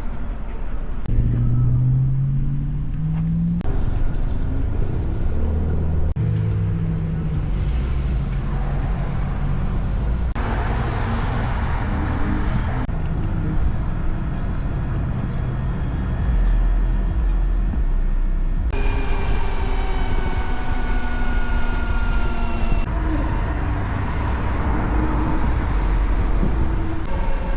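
Motorcycle engine running while riding, its pitch rising as it accelerates and falling again later, over steady low wind and road rumble. The sound changes abruptly several times.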